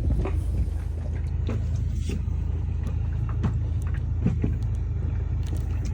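A steady low rumble with a few sharp clicks and knocks of hand tools on metal, as the starter relay on a Tohatsu outboard is unbolted.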